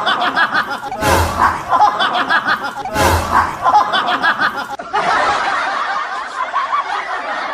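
Loud laughter. For the first few seconds the same laughing burst repeats about every two seconds, then a different stretch of laughter follows.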